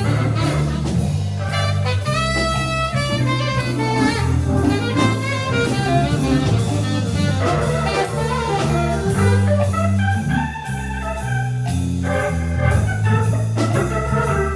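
Live jazz combo playing an instrumental number. A bass line moves note by note underneath, with melody above and steady drum and cymbal strokes.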